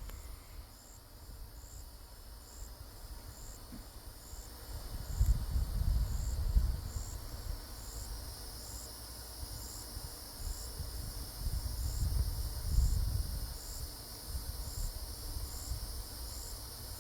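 An insect chirping steadily, one short high chirp about every second. Low rumbling noise on the microphone swells twice, about five and eleven seconds in, and is the loudest sound.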